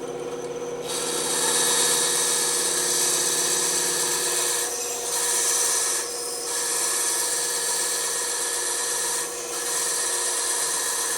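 Bandsaw running with a steady hum, its blade cutting into wood from about a second in with a loud hiss that eases off briefly a few times.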